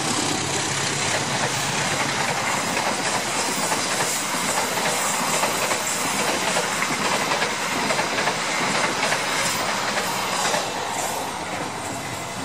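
Express passenger train passing at speed behind a GE CC 206 diesel-electric locomotive: a steady, loud rush of engine and wheel noise, with rapid clickety-clack of the stainless steel coaches' wheels over the rail joints. The noise eases a little near the end as the last coaches go by.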